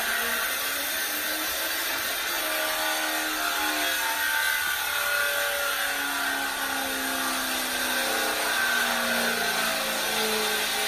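A car engine running and revving, its pitch climbing slowly, heard through a flat-screen TV's built-in speakers.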